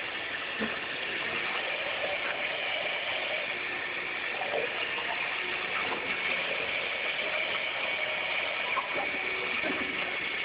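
Electric blender running steadily, a constant mechanical whir with a few faint knocks.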